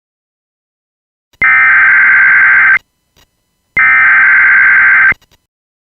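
Two bursts of Emergency Alert System SAME header data tones, a rapid buzzing warble each about a second and a half long with a one-second gap between them, signalling the start of an emergency alert broadcast.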